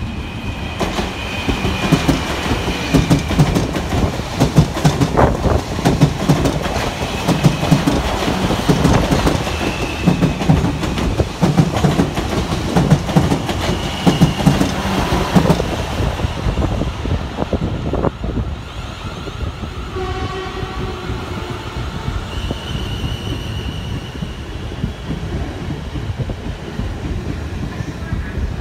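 Electric multiple-unit passenger train running past at close range, its wheels clattering in a regular rhythm over the rail joints. Later an electric whine rises in steps as the train pulls away.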